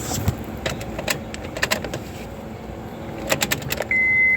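A run of sharp clicks and jingles, like keys being handled, then near the end a high electronic beep starts, one of a series of half-second beeps.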